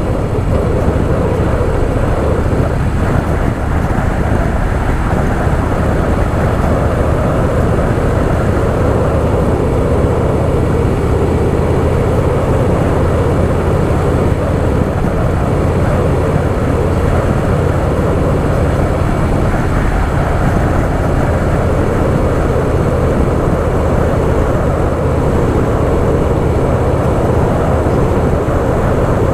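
Harley-Davidson Softail Fat Boy's V-twin engine running steadily at road speed, with a steady rush of wind on the microphone.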